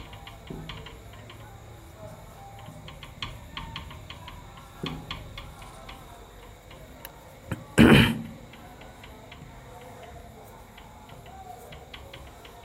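Irregular light clicks and ticks, with one short, loud burst of noise about eight seconds in.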